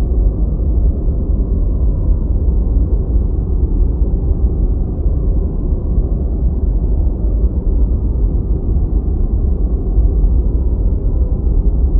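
Steady, deep white noise: a constant rumbling hiss, heavy in the bass with almost no high treble, unchanging throughout.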